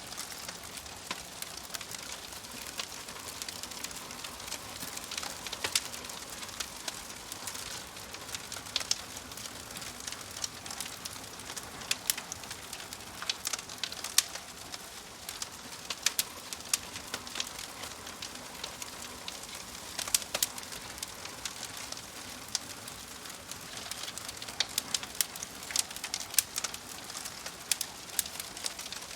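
Wood fire in a fireplace crackling: irregular sharp pops and snaps over a steady soft hiss.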